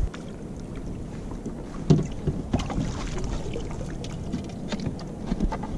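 Scattered knocks and clicks of gear being handled on a fishing kayak, with one louder thump about two seconds in, over light wind and water noise.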